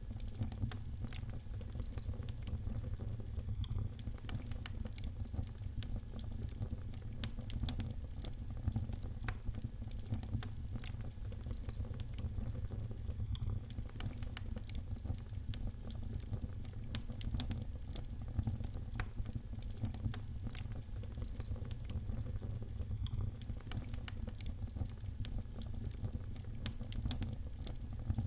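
Wood fire crackling, with many small sharp pops and snaps scattered irregularly over a steady low rumble.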